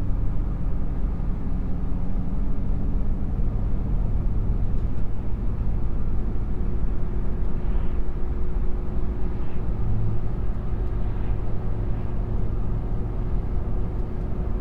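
Steady engine and road noise of a moving car or truck, heard from inside the cabin, with a faint steady hum that comes in about halfway through.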